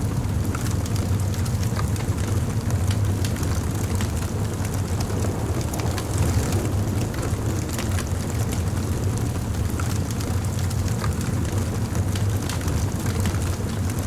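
Wood fire burning: a steady low rumble with frequent small crackles and pops scattered throughout.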